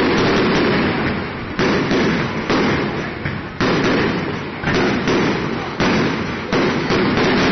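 Aerial firework shells bursting overhead, a sharp boom about once a second, each one rumbling away before the next.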